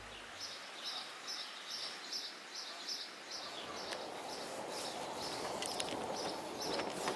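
A small bird chirps a steady series of short high notes, a little over two a second. From about halfway, footsteps crunch up a dry dirt trail.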